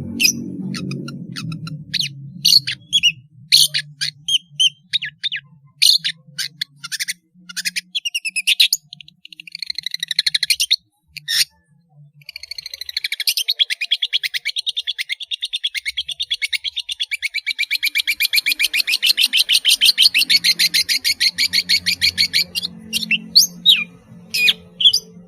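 Long-tailed shrike (pentet) singing: a run of sharp chirps and short quick phrases, then a long, fast rattling trill lasting about ten seconds from around the middle, then more single chirps.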